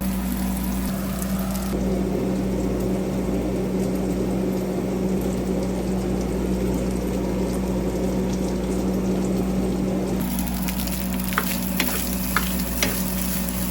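Food frying in a pan, a steady sizzle with a constant low hum underneath and a few sharp clicks near the end.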